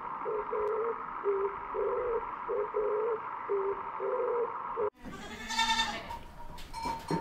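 A string of short, low cooing notes alternating between two pitches over a steady background hum. It cuts off abruptly a little before five seconds in, and then a goat bleats loudly.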